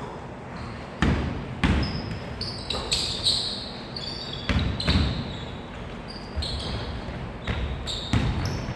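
A basketball bouncing on a gym floor, about nine irregular thuds as it is dribbled and played, with short high-pitched squeaks of sneakers on the court between them.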